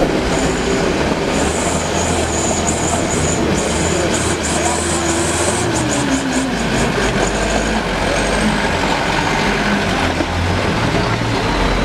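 Truck diesel engine labouring through deep mud, its pitch sliding down about halfway through. Over it, a high squeal with a rapid clatter runs for roughly the first seven seconds, then stops.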